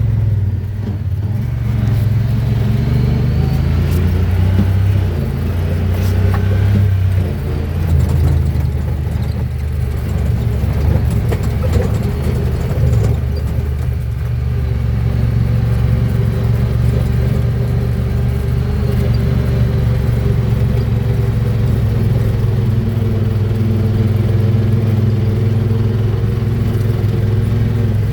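Honda Pioneer 1000-5 side-by-side's engine running steadily under way on an off-road trail, with its pitch stepping a couple of times, around seven and thirteen seconds in, and a few short knocks.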